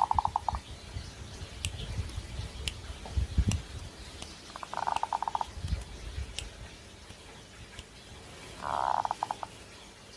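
Zebra dove (perkutut) cooing: two short coos about four seconds apart, plus the tail of a third right at the start, each a quick stuttering run of soft notes. This is the song of a bird in breeding mood.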